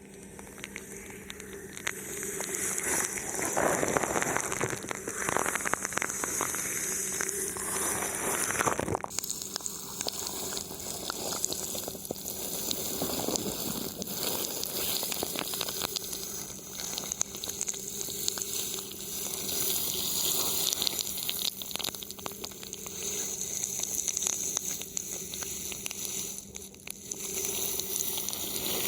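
Thin plastic film wrapped over a microphone, rubbed and touched close up, giving a steady dense crackling and crinkling. The texture changes abruptly about nine seconds in.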